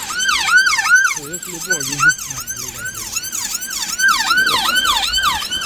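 Ambulance siren on its fast yelp setting: a loud wail sweeping up and down about two to three times a second.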